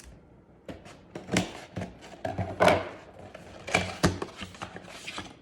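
Small cardboard boxes of chocolate bars being handled, with irregular rustling, scraping and sharp clicking taps, several of them loud.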